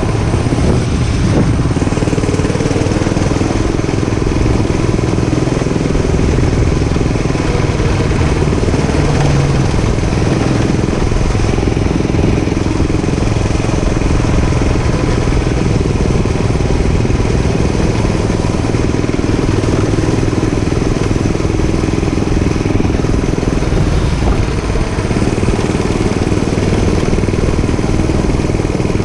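Dirt bike engine running steadily with small changes in pitch, as if under way.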